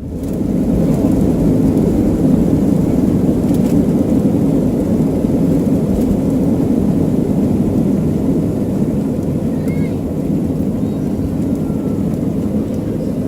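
Hurricane wind rumbling steadily on the microphone, a loud, deep, even roar that starts abruptly.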